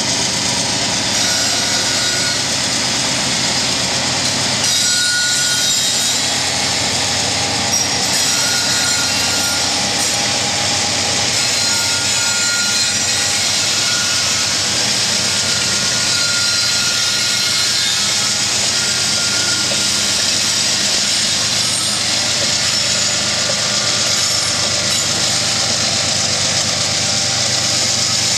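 Freight train pulling uphill from a standing start, its GE diesel locomotives working hard under load: a loud, steady drone of engines and rolling train, with brief faint high tones now and then.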